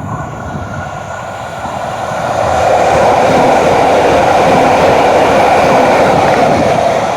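Vehicle running noise: a steady rushing rumble that swells about two seconds in, holds, then eases near the end.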